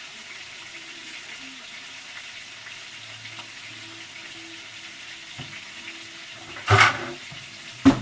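Kitchen sounds during cooking: a steady faint hiss, a loud rushing burst about two-thirds of the way in, and a sharp clatter near the end.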